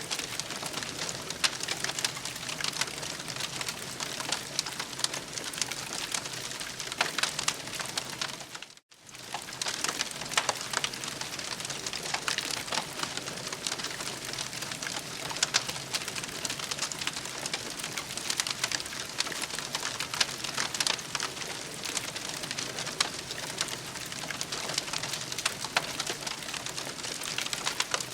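Campfire crackling and popping steadily, a dense run of small snaps over a soft hiss, with a brief drop-out of sound just under nine seconds in.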